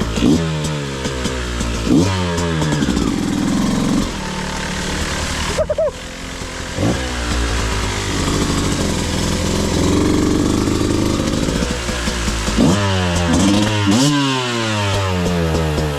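Beta 200RR single-cylinder two-stroke dirt bike engine revving in repeated throttle bursts, pitch climbing and falling back over and over as it is worked at low speed over rocks, with a brief drop in revs about six seconds in.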